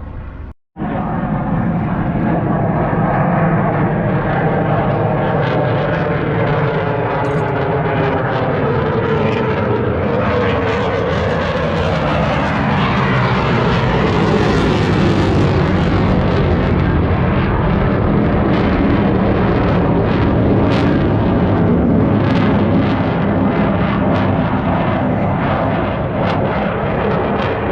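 Propeller aircraft flying a display pass overhead, its piston engine running loud and steady. The engine note shifts in pitch as it passes, fullest around the middle. A brief cut-out comes just after the start.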